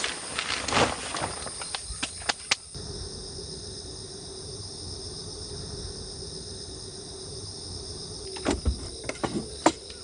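Insects chirping steadily in a high-pitched, continuous drone. Scattered sharp clicks and knocks come in the first couple of seconds and again near the end.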